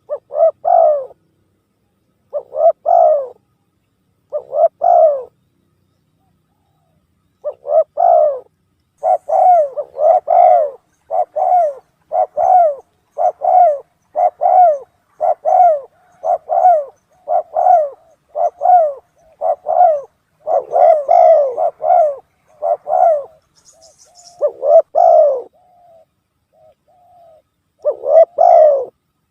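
Spotted dove cooing over and over: three separate coos, then a quick run of coos about one a second, then two more near the end. This is a bird-lure call recording used to draw wild spotted doves in.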